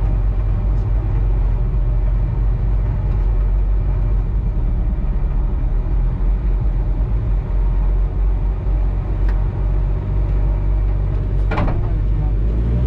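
Peugeot 207 R3 rally car's engine idling steadily, heard from inside the stripped cabin, with a short sharp noise near the end.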